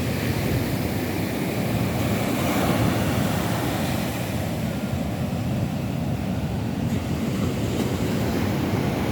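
Rough sea surf breaking on a beach: a continuous rushing wash of waves that swells slightly a few seconds in.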